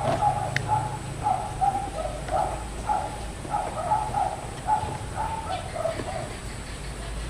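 Short animal calls repeating over and over, and a single sharp click about half a second in.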